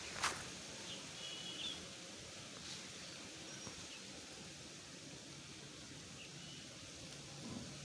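A few short, high bird chirps, clearest about a second in, with fainter ones later, over steady outdoor background noise. A sharp click comes just after the start.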